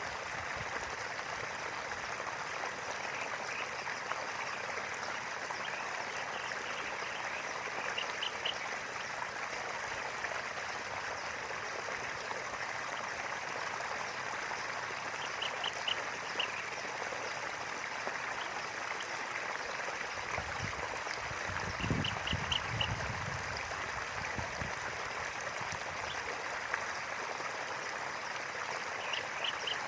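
River water running steadily, with short bursts of a few quick animal calls about every seven seconds. A low rumble comes and goes in the middle.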